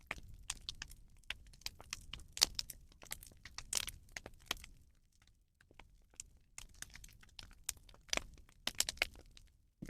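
Bonfire of burning rubbish crackling, with irregular sharp pops and snaps of uneven loudness.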